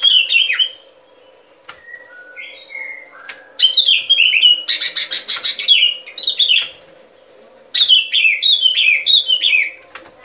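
Bulbul song, a 'bông lau' decoy recording: three bouts of quick, bright, chattering phrases with softer notes between them.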